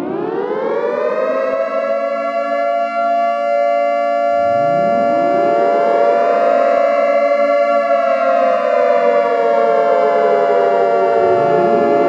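Air-raid sirens wailing: one winds up and holds, a second winds up about four seconds in, and a third near the end, overlapping as the earlier wail slowly falls in pitch.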